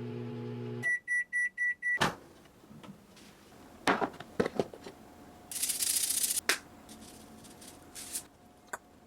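Microwave oven running with a steady hum that shuts off, followed by four short beeps signalling the end of the cooking time and the click of the door opening. Then come a few clinks and about a second of scraping.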